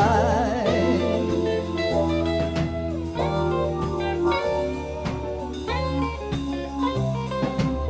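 A band playing an instrumental passage on guitar and drum kit over a low bass line, just after the singer's last held note dies away.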